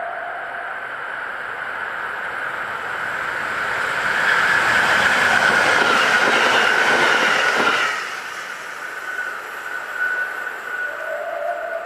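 EN57AKŚ electric multiple unit passing at speed, its wheels running over the rails. It grows louder as it approaches, is loudest for about four seconds as the cars go by, and drops away suddenly as the last car clears.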